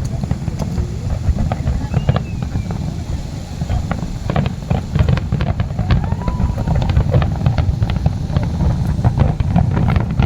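Fireworks banging and crackling over a continuous low rumble, with many sharp cracks packed through the middle of the stretch.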